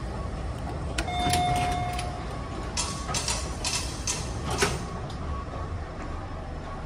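Steady low rumble of a subway station. About a second in there is a single held electronic beep lasting about a second, followed by a run of clicks and light clatter, with one sharp click a little before the halfway point.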